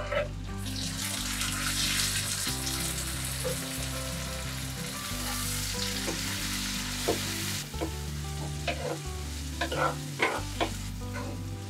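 Chopped tomatoes hitting hot oil and browned onions in a clay pot, setting off loud sizzling that eases off after several seconds. In the second half, a metal spoon stirring and scraping against the pot several times over the frying.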